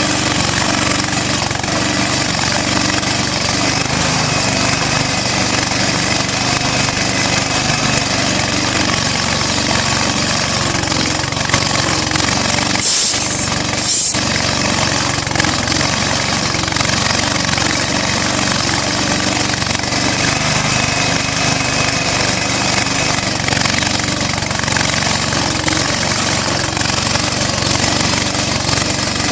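Southpenn 20 HP hit-and-miss flywheel engine running steadily on propane after a cold start.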